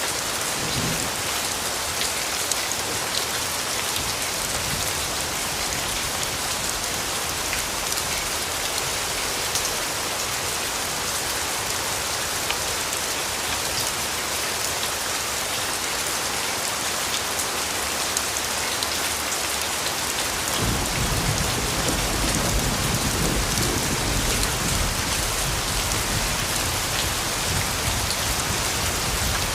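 Steady rainfall, an even hiss with scattered drop patters. About two-thirds of the way in, a low rumble joins it and carries on.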